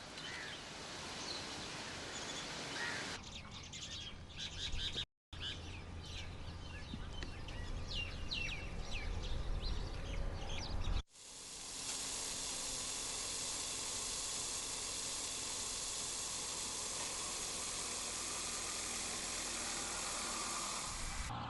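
Birds chirping, short quick high calls, over an outdoor background hiss, broken by a few abrupt edits. About halfway through it cuts to an even, steady hiss with no calls.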